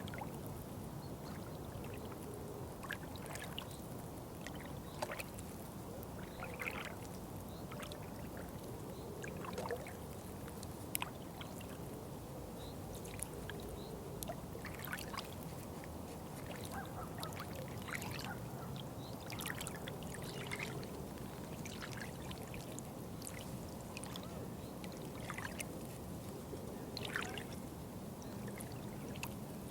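Small flow of water trickling steadily, with many short splashes and drips scattered through it.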